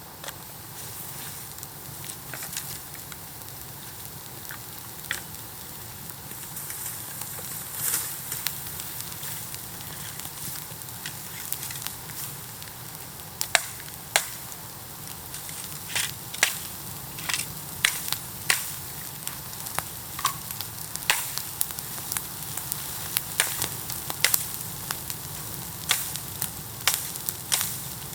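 Bamboo bonfire burning: a steady hiss with sharp crackles and pops, the pops coming more often and louder from about halfway in.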